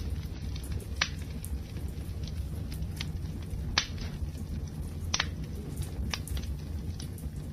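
Wood fire burning with a steady low rumble and sharp crackling pops, three louder snaps at about one, four and five seconds in among smaller crackles.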